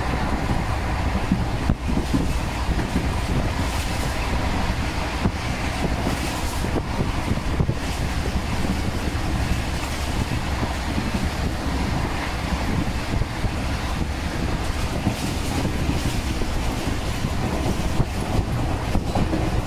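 Express passenger train running at speed, heard from an open coach doorway: a steady, heavy rumble of wheels on the track mixed with rushing air.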